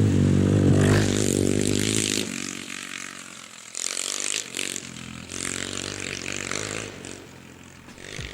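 Motorcycle engine revving, rising in pitch and loudest in the first two seconds, with further shorter revs later and a fade near the end.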